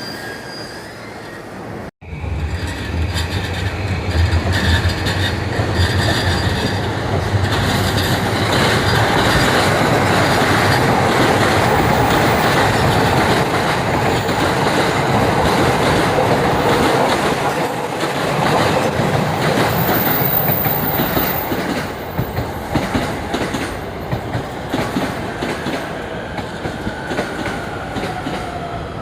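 Electric commuter train running into the station at speed: a loud rumble and clatter of wheels over the rails that builds, holds, then eases off. Near the end a whine falls in pitch as the train slows.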